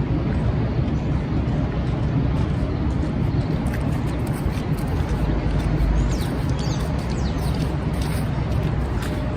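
Busy city street ambience: a steady rumble of traffic.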